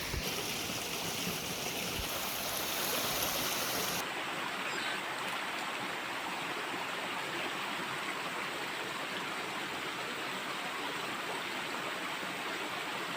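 Flowing water of a stream rushing steadily. About four seconds in the sound abruptly turns duller, losing much of its high hiss.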